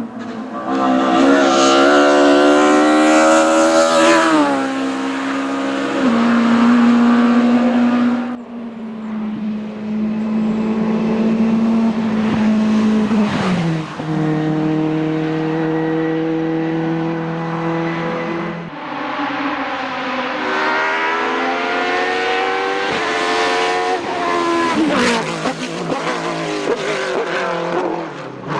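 Race car engine under hard acceleration on a hillclimb. Its pitch climbs and drops sharply at each gear change, holds lower for a stretch in the middle, then climbs through the gears again.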